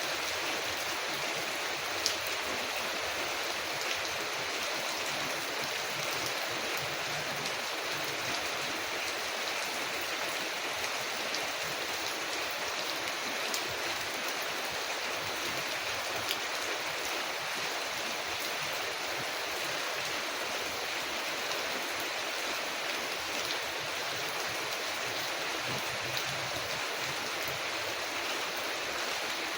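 Steady rain falling on a window, an even wash of noise with a few sharp clicks scattered through, the loudest about two seconds in.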